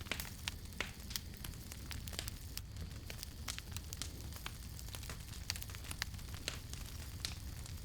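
Wood campfire crackling, with frequent sharp irregular pops and snaps over a steady low rumble of the flames.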